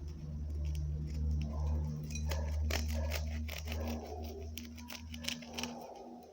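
Metal kitchen utensils clinking and tapping against a bowl, a quick run of light clicks in the middle, over a steady low hum that stops near the end.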